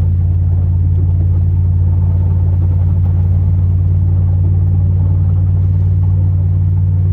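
Chevrolet Silverado's 8.1-litre big-block V8 engine running steadily under load as the plow truck drives, a constant low drone.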